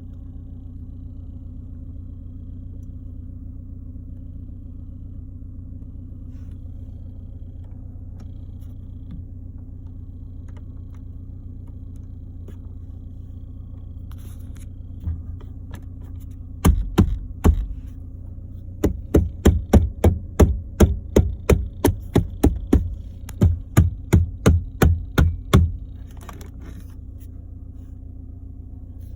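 Audi A4 B8 with a steady low engine hum; past the halfway point a sharp squeak from the front left starts repeating, in a short cluster and then about two a second for several seconds before stopping. This is the squeak the owner is trying to trace and get rid of.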